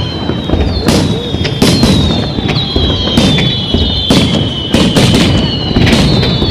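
Aerial fireworks going off in a close series of sharp bangs over a continuous low rumble of booms, with a thin high whistling tone that keeps sliding slightly down and jumping back up.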